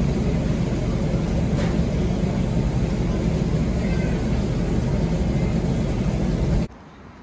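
Steady road and engine rumble inside a moving car, which cuts off abruptly near the end, leaving a much quieter background.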